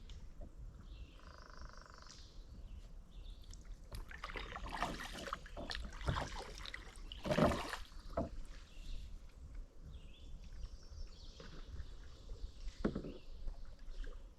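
Kayak paddles dipping and splashing in a creek, with a few sharp knocks, the splashes loudest about five to eight seconds in.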